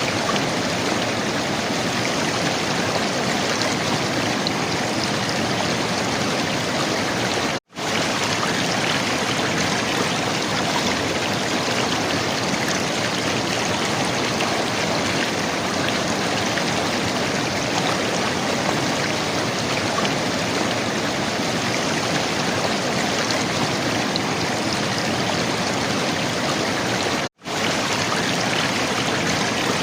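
River water flowing and gurgling in a steady, even rush, cutting out for an instant twice.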